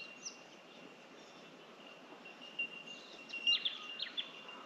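Bell miners (bell birds) calling: short, sharp high notes, clustered about three to four seconds in, over a steady high-pitched ringing.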